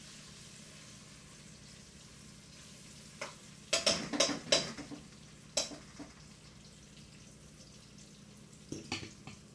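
Mushrooms frying in olive oil and tomato paste in a pot, a steady sizzle. Metal pots and utensils clatter and knock in a cluster about four seconds in, once more shortly after, and again near the end.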